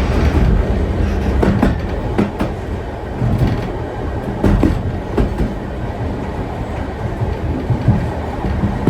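Vintage steam train rolling along the track: a steady low rumble of the carriages, with irregular sharp clicks and knocks as the wheels pass over rail joints.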